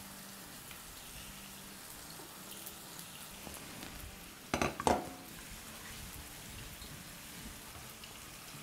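Faint, steady sizzle and crackle of a spice and tomato masala frying in a nonstick pan. Two brief knocks come close together about halfway through.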